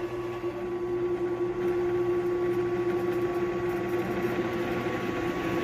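WEN 4214 variable-speed benchtop drill press, its 2/3 hp induction motor running steadily at the lowest speed setting: an even hum with a constant pitch.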